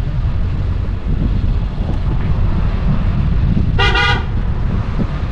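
Steady low rumble of a car driving, with one short car horn toot a little under four seconds in.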